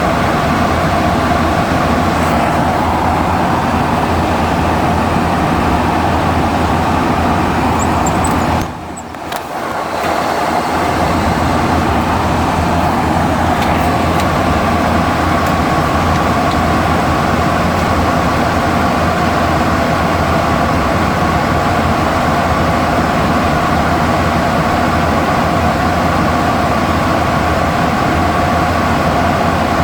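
Steady roar of air and machinery inside the cockpit of a Boeing 737NG, with a low hum underneath. It drops away for about a second and a half about nine seconds in, then comes back steady.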